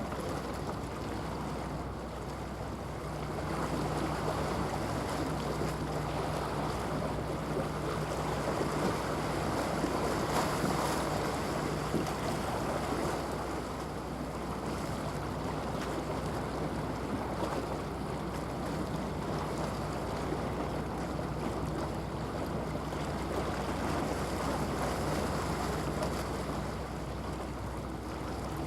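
Passing ship's diesel engine giving a low, steady drone over a rush of water and wind, growing a little louder midway and easing off again.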